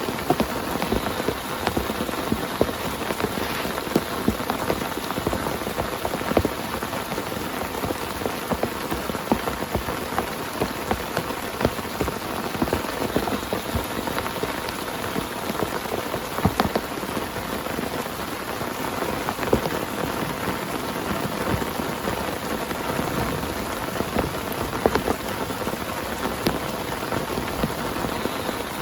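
Heavy rain pattering steadily on a tent, a dense patter of individual drop strikes.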